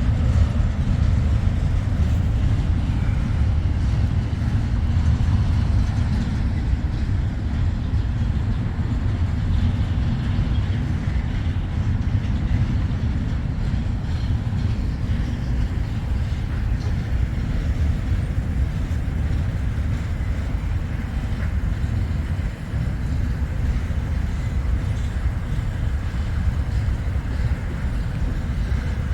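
International 1066 tractor's diesel engine running steadily, a constant low rumble.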